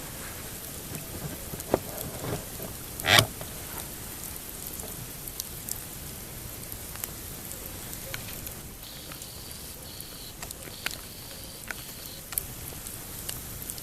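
Pine campfire crackling, with scattered sharp pops over a steady hiss; the loudest pop comes about three seconds in.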